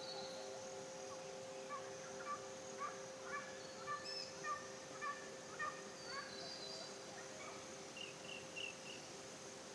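Forest birdsong: one bird repeats short notes about twice a second for a few seconds, other birds chirp higher and a quick run of notes comes near the end, over a faint steady drone.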